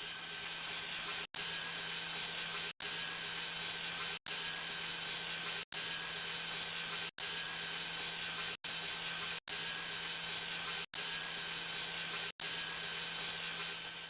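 Machine tool cutting a cast Evo turbine housing to widen its profile for a larger turbine wheel: a steady hiss over a low, even hum, broken by short gaps about every second and a half.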